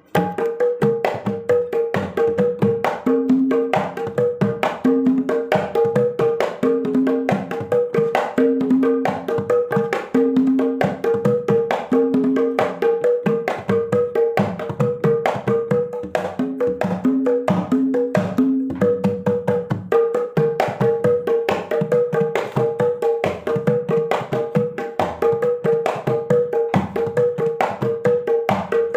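Kendang, the Javanese two-headed hand drum, played in a fast, steady kendang kempul rhythm: a dense stream of quick slaps with a repeating ringing higher stroke, and runs of deeper booming strokes that come and go.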